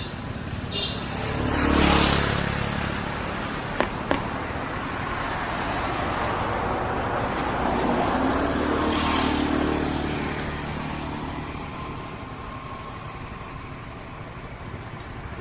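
Motor vehicles passing by: one swells and fades about two seconds in, then a second rises and fades through the middle. Two sharp clicks come close together in between.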